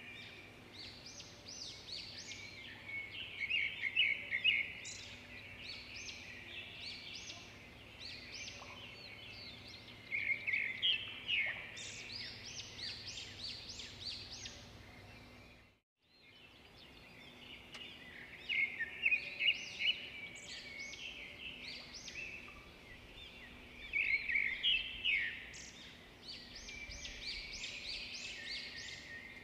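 Birdsong: clusters of quick, high chirping and twittering calls every few seconds over a faint steady hum. It cuts out briefly about halfway through, then resumes.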